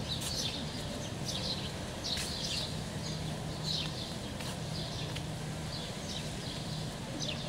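Small birds chirping: short, high, falling chirps at irregular intervals, over a steady low hum.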